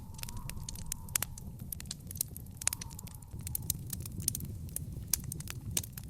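Wood fire in an outdoor fire pit crackling, with many sharp, irregular pops and snaps over a low, steady rumble.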